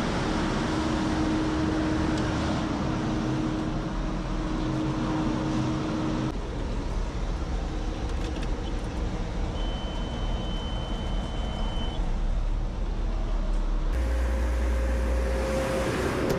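Concrete mixer truck's diesel engine running at idle just after start-up, while its air system builds pressure. The sound changes abruptly twice, and a steady high beep sounds for a couple of seconds about midway.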